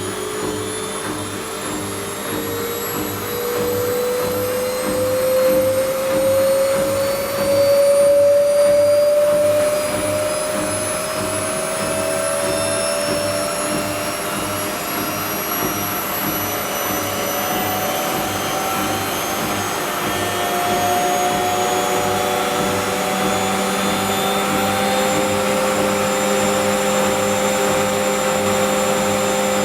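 Whirlpool washing machine in its spin cycle, the drum speeding up: a motor whine rising steadily in pitch, over a regular pulsing of the turning drum.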